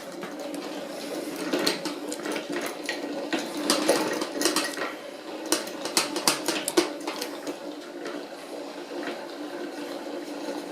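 Centrifugal honey extractor being spun by hand with a single frame inside: a steady whirring hum with irregular metallic rattles and knocks, busiest in the first half and settling toward the end.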